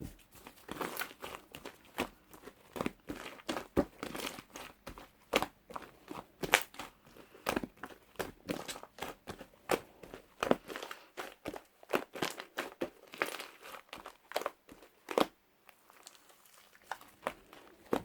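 Foam slime mixed with clay being kneaded and pressed by hand, giving a quick, irregular run of sticky clicks and crackling pops. The clicks thin out briefly about fifteen seconds in, then resume.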